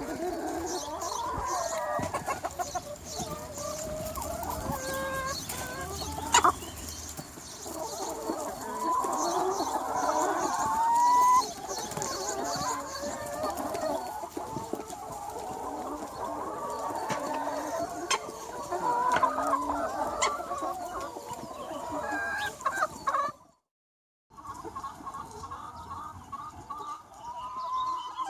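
A large free-range flock of chickens clucking and calling over one another, with a louder rising call about eleven seconds in. The sound breaks off in a short gap near the end, then the flock resumes.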